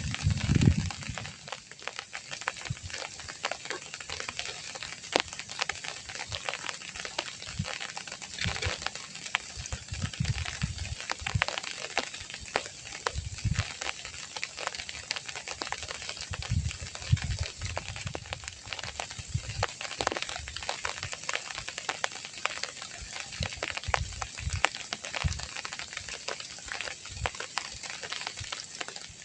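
Steady rain pattering with dense, irregular drop clicks. A low rumble fades out in the first second.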